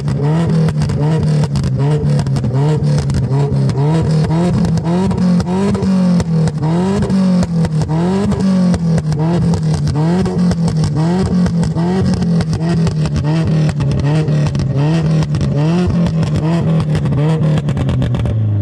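Car engine being revved over and over in a steady rhythm, its pitch rising and falling about three times every two seconds.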